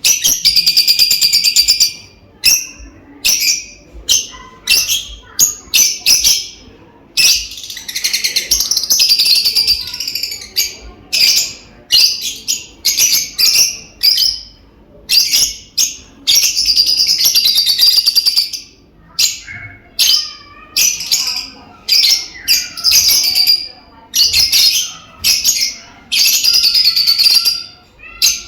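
Lovebirds calling: shrill, high-pitched chirps in quick succession, broken by several stretches of dense chattering a second or more long.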